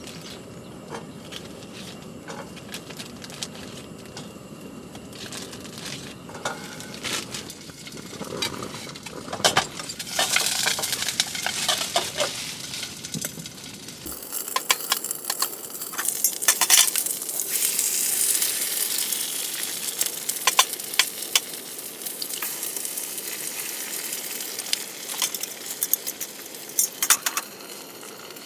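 Sizzling hiss with many sharp crackles and pops from a small campfire in a stainless-steel colander, getting louder about a third of the way in.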